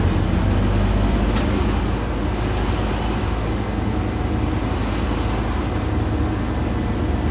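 Scania N230UD OmniCity double-decker bus running steadily, its five-cylinder diesel engine droning low. A faint click comes about a second and a half in.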